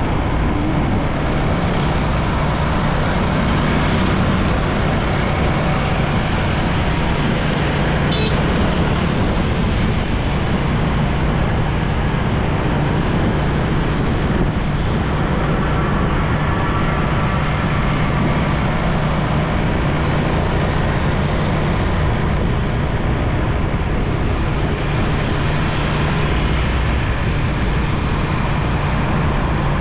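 Motorcycle engine running steadily under way, with road and wind noise and the sound of surrounding traffic.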